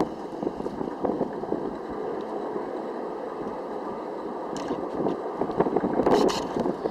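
Rumbling noise inside an Airbus A380's passenger cabin, with a continual rattle and a few sharp knocks, loudest about six seconds in.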